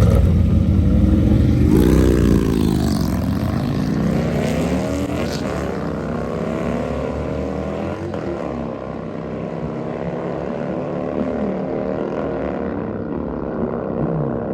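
Drag-racing motorcycles, one of them a Harley, launching and running down the strip. The engine sound is loudest over the first couple of seconds, then eases off as the bikes pull away, with pitch rising and falling as they accelerate and shift.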